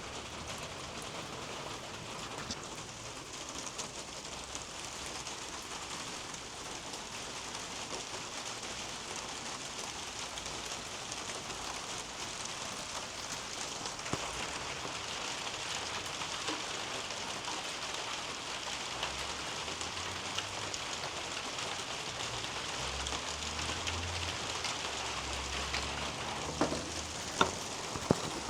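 Steady rain falling on a roof above and pattering through garden leaves, with a few sharp, louder drip knocks near the end.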